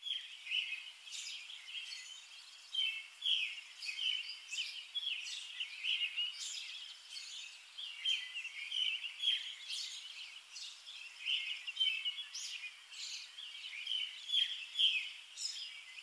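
Small birds chirping: many short, high calls overlapping one another without a break.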